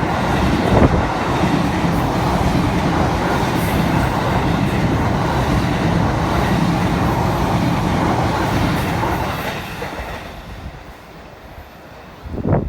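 Electric train passing on the rails, steady and loud, then fading away over the last few seconds.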